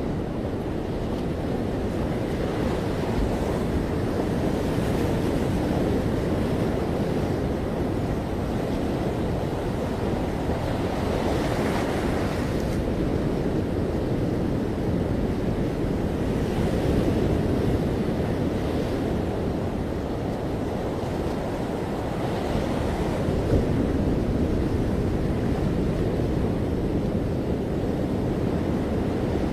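Ocean waves breaking and washing on a beach, a steady surf rush that swells and eases every few seconds, with low wind rumble on the microphone.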